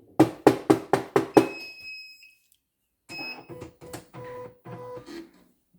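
Computer embroidery machine being tried out: a quick run of six sharp clacks, then electronic beep tones, then more mechanical clatter over steady tones.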